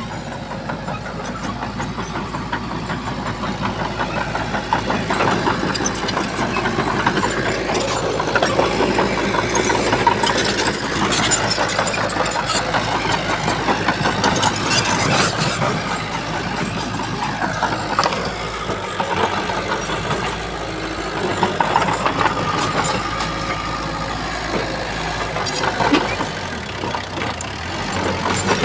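Diesel engine of heavy earthmoving machinery running steadily, with scattered clanks and rattles, getting a little louder over the first ten seconds or so.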